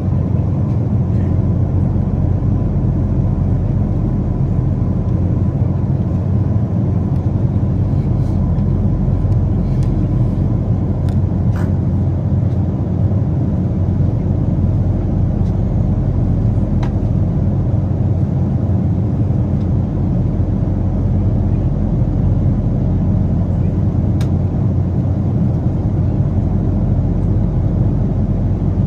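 Steady cabin noise of a Boeing 777 airliner: a constant low rumble of engines and airflow, even in level throughout.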